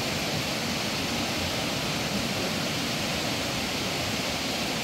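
Steady rushing of running water, like a stream flowing, an even hiss that holds at one level throughout.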